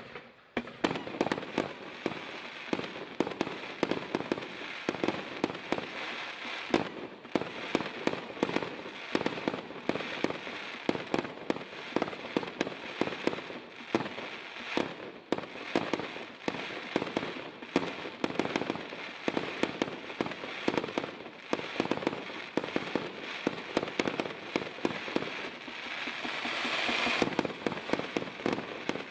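A 160-shot firework battery cake firing, a rapid, continuous string of shots and bursts several per second, building to a denser, louder stretch near the end.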